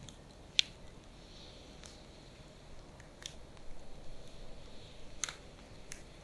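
Firewood burning with sparse crackles and sharp pops over a soft steady hiss, the loudest pop about half a second in.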